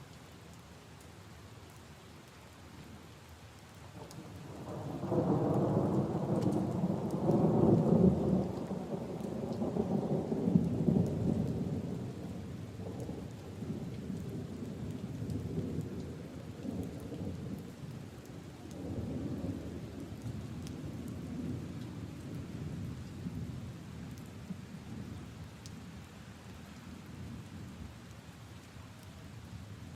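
Steady rain falling on leaves and puddles, with a long roll of thunder that swells about four seconds in, is loudest for several seconds, then rumbles away slowly until near the end.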